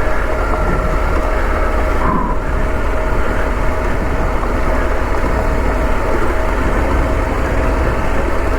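KTM 890's parallel-twin engine running steadily at low revs on a slow off-road descent, a low rumble with a faint steady whine over it.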